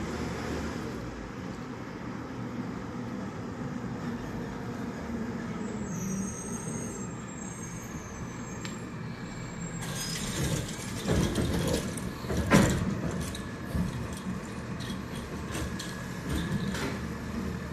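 Garbage truck running with a steady engine hum; from about ten seconds in come a run of metal clanks and knocks, the loudest a sharp bang about two-thirds of the way through.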